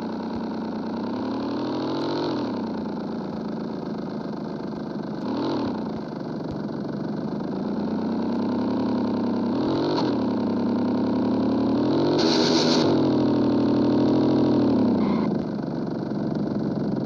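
Single-cylinder 160 cc motorcycle engine with its muffler removed, running on the bare exhaust pipe: idling, with about five quick throttle blips that rise and fall in pitch, one near the middle held a little longer.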